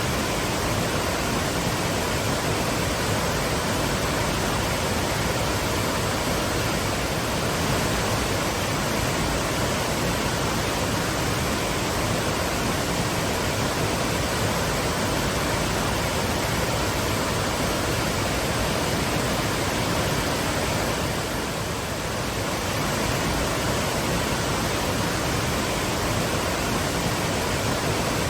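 Waterfall pouring in a steady, full rush of falling water, with no break.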